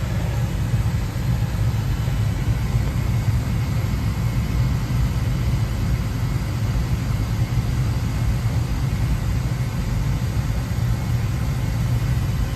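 Oil burner on a Burnham oil-fired boiler running steadily, its blower and flame giving an even, unbroken low rumble.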